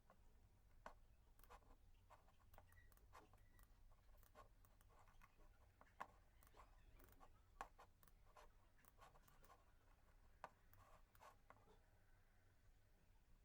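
Faint scratching and small ticks at irregular intervals over a low steady hum, the sort of small handling sounds of writing.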